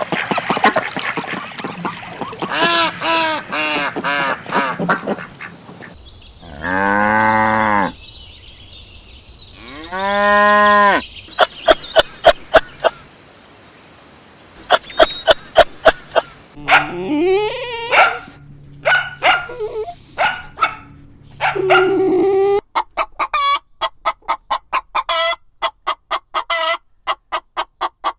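A run of different farm animal calls one after another: two long drawn-out calls, then quick trains of short, repeated notes.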